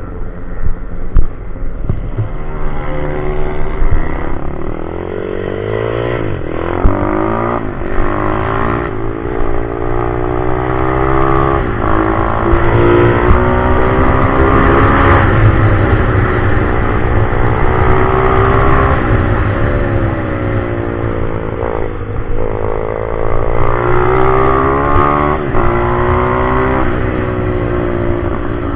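Pit bike engine being ridden hard: it revs up in rising pitch, drops briefly at each gear change and winds down between pulls, over and over.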